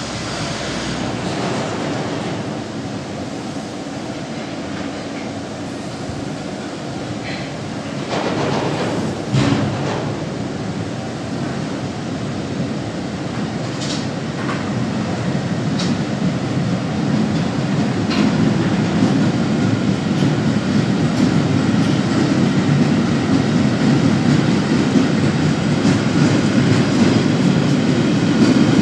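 Freight train of empty two-deck car-carrier wagons rolling past at speed: a steady rumble and clatter of wheels on the rails, with a few sharp clicks and a louder knock about nine seconds in. It grows louder through the second half.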